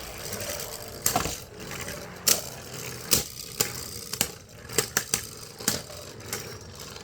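Two plastic Beyblade spinning tops, a Drigger S and Gyro Engine Gear, whirring and scraping in a stadium. Sharp plastic clacks ring out about ten times at irregular intervals as the tops collide.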